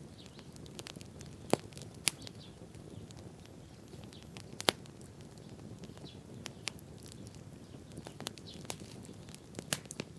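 Wood bonfire crackling: sharp pops and snaps every second or two, the loudest about four and a half seconds in, over a low steady rush of burning.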